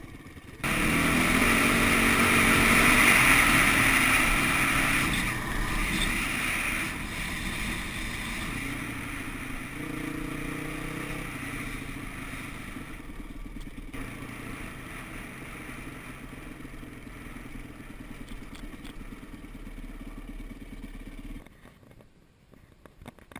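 Dirt bike engine running while riding, under a loud rushing noise. It starts abruptly about a second in, is loudest over the first few seconds, eases afterwards, and cuts off suddenly near the end.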